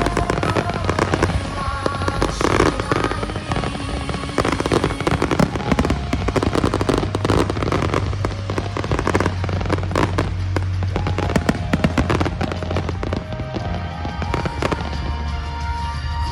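Fireworks display: many shells bursting in quick succession with crackling and a continuous low rumble, over music with a sustained melody.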